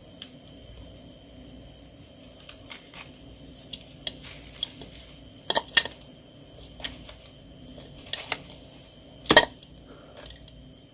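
Freezer frost ice cracking and crunching in scattered sharp snaps, the loudest a little past halfway and near the end.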